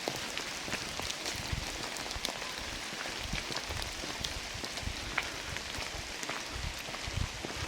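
Rain falling through the forest: a steady hiss dotted with many separate sharp drop ticks, over an uneven low rumble.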